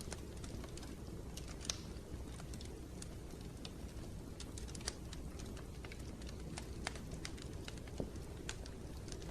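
Wood fire crackling in a fireplace: irregular sharp pops and snaps, a couple louder than the rest, over a steady low rumble.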